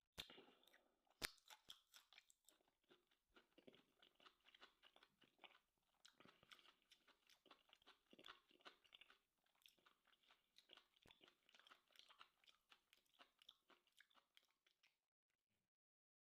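A person chewing food close to the microphone: a quiet, dense run of small mouth clicks and smacks with two sharper clicks at the start. It stops about a second before the end.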